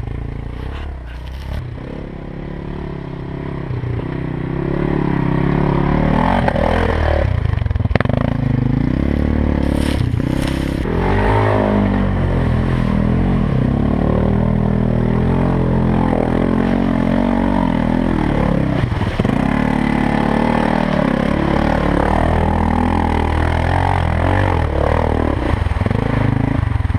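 4x4 ATV engine running under way, its pitch rising and falling with the throttle and getting louder about five seconds in, with a few knocks and clatters.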